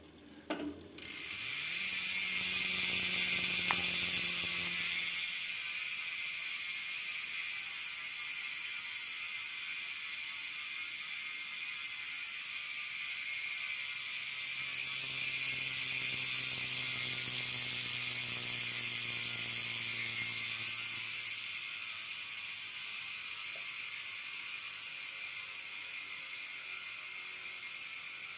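Bicycle rear freehub ratcheting in a fast continuous buzz as the wheel spins freely. It is loudest in two stretches and slowly fades toward the end.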